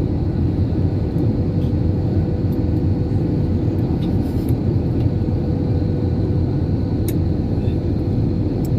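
Airplane landing: a steady, loud low rumble of engines and rushing air with a faint steady hum over it.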